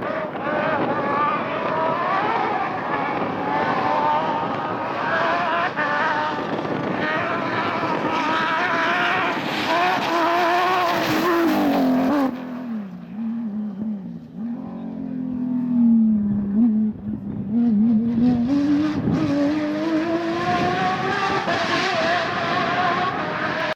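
Porsche 997 rally car's flat-six engine driven hard, revs rising and falling as it changes gear. About halfway through the revs drop low for several seconds, then the engine accelerates hard again, climbing steadily until the sound cuts off.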